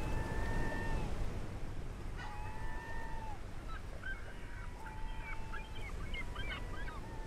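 Birds calling: a series of long drawn-out calls, each about a second long and slightly falling at the end, with a run of short, quick calls joining in from about halfway, over a steady low rumble.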